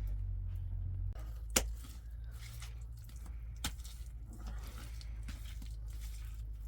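Two sharp knocks about two seconds apart over a low steady rumble, with scattered rustling and crunching.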